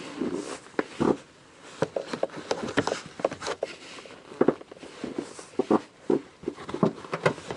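A car's rear seat cushion being pushed down and tugged upward to free it: an irregular run of knocks, clicks and rustling from the seat and its fittings being worked loose.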